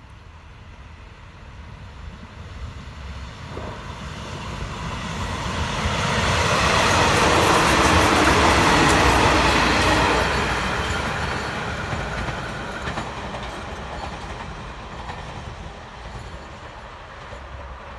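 SRT Special Express train No. 43 passing at speed: the noise of its wheels on the rails builds over several seconds, is loudest about halfway through as the cars go by, then fades as it moves away.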